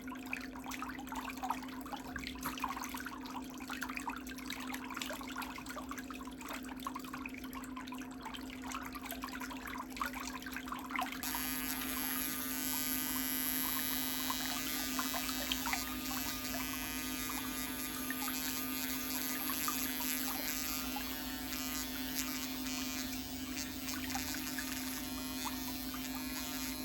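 Electric nail file (nail drill) running with a steady hum while the bit grinds scratchily against thick toenail. About eleven seconds in, the grinding gives way abruptly to a smoother, hissier sound.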